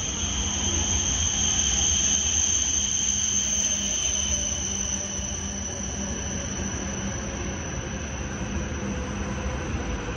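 E5 series Shinkansen pulling into the platform and slowing: a low running rumble under a steady high-pitched whine, loudest a couple of seconds in. A lower whine sinks gradually in pitch as the train decelerates.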